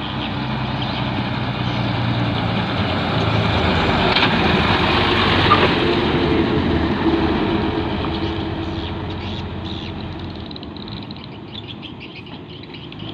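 An 8x4 heavy diesel truck drives past. Its engine grows louder to a peak about halfway through and then fades away.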